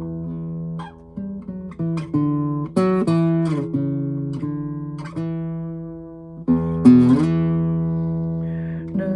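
Acoustic guitar playing an instrumental passage: single plucked notes ringing out over a sustained bass, with a fuller struck chord about six and a half seconds in.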